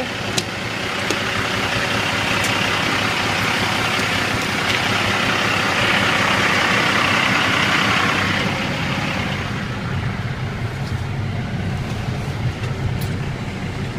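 Dump truck's Cummins ISX diesel engine idling steadily. A broad hiss rises over it in the middle and fades after about eight seconds, with a few faint clicks.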